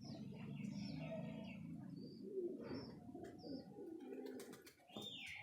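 Domestic pigeons cooing, with a few short high chirps over the cooing and a quick run of sharp clicks near the end.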